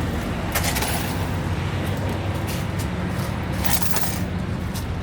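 Semi-truck diesel engine idling with a steady low hum, with a few short bursts of hissy noise over it.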